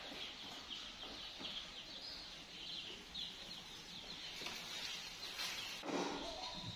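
Birds chirping busily: many short high-pitched peeps in quick succession, with a louder, lower sound near the end.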